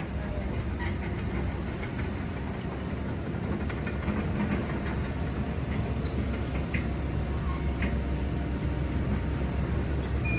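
Steady low rumble of a truck on the move, with road noise and a few faint ticks and rattles.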